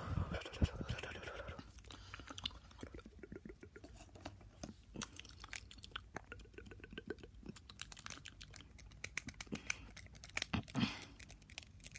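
Fast, wet ASMR mouth sounds: a rapid, irregular run of tongue clicks and lip smacks, with a breathy sound in the first second or so.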